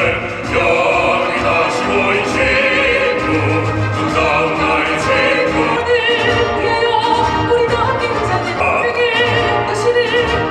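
Live operatic singing with vibrato over instrumental accompaniment, the voice holding long, wavering notes.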